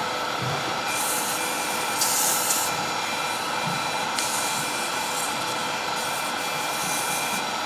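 Wood lathe running with a steady whine while 240-grit sandpaper is held against the spinning wooden top, giving a high hiss that swells and fades about four times as the paper is moved.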